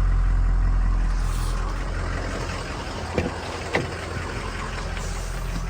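Ford 6.0 Power Stroke V8 turbo diesel idling steadily, running smooth. Two short clicks about halfway through.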